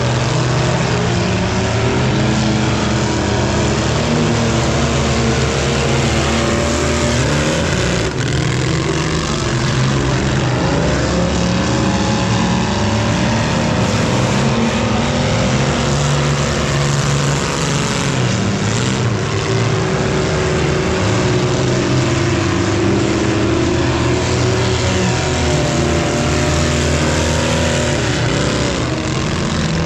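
Engines of several junk race cars running together at high revs, their pitches rising and falling as they accelerate and ease off.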